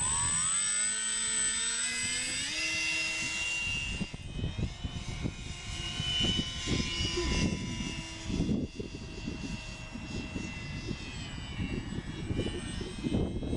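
Electric motor and propeller of a GWS Tiger Moth RC biplane whining in flight, rising in pitch about two and a half seconds in as the throttle opens, then holding steady. Gusts of wind buffet the microphone with low rumbling thumps through the second half.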